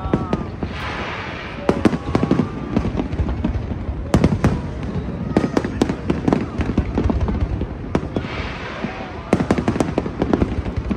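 Aerial fireworks shells bursting, many sharp bangs coming in quick, uneven succession.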